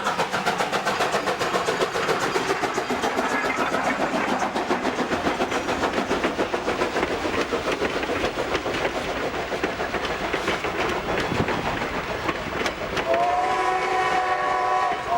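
Steam locomotive #90, a 2-10-0, running past with a fast, even beat of short strokes, then sounding its steam whistle with a steady sustained tone about thirteen seconds in.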